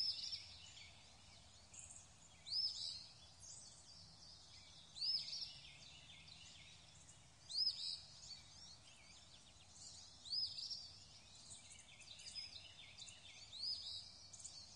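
Faint bird calls: a short, high chirp that rises and falls, repeated about every two and a half seconds, with fainter chirps from other birds between.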